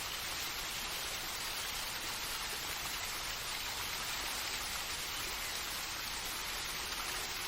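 Steady falling-water ambience: an even, unbroken hiss with no distinct drops or other sounds.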